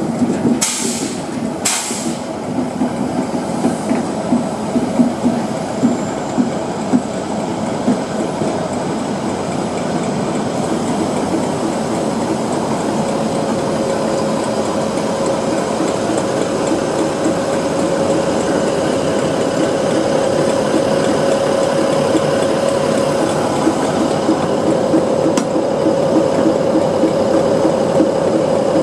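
British Rail Class 60 diesel locomotive, with its eight-cylinder Mirrlees diesel engine, running at low speed as it hauls a train of tank wagons to a stop. The wheels rumble and clack over the rails, with two sharp clicks near the start and a steady whine that comes in about halfway through.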